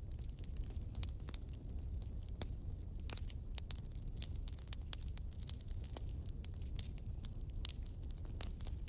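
Wood campfire crackling, with frequent irregular pops and snaps over a steady low rumble of the flames.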